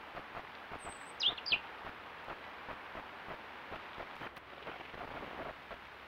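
A small bird's brief high calls about a second in: a short thin note, then two quick, sharp downward-sweeping notes. They sound over a steady hiss with faint irregular ticks.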